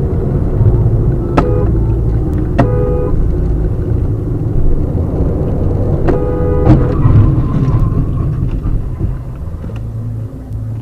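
Car on the road: a steady low rumble of engine and tyres. Four sharp knocks cut through it, two in the first few seconds and two more about six to seven seconds in, some followed by brief ringing tones.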